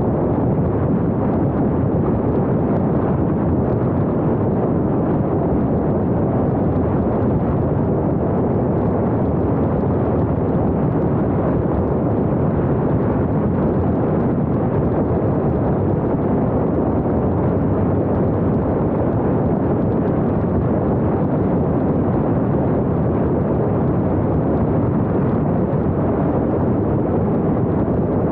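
Wind and road noise from a car driving, a steady, even rumble with no engine note or separate sounds standing out.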